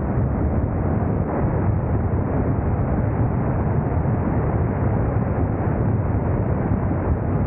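Motorcycle riding at a steady road speed: the engine's drone under heavy wind rush on the camera microphone.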